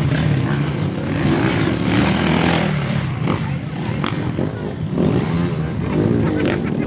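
Motorcycle engine running continuously, its revs rising and falling, over a steady rushing noise.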